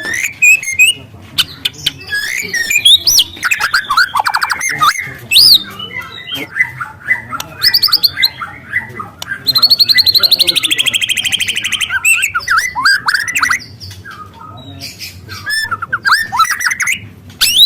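Juvenile white-rumped shama singing a loud, varied song of gliding whistles and quick chatters. About nine seconds in it gives a long, fast canary-like trill lasting around two and a half seconds.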